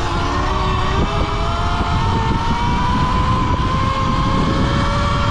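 Falcon Pro 79 electric dirt bike's motor whining and climbing slowly in pitch as the bike gains speed, over a heavy rumble of wind on the microphone.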